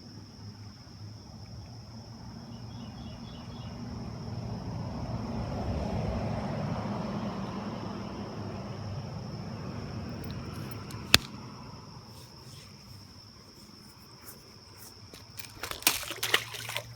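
Steady high-pitched insect drone from crickets or other insects along the creek. In the middle, a broad rushing sound swells and fades over several seconds, like a vehicle passing. A sharp click comes about eleven seconds in, and a quick cluster of knocks near the end.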